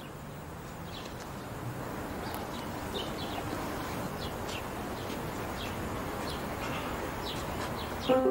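Outdoor ambience: small birds chirping briefly now and then over a steady background hiss. Bell-like music tones come in at the very end.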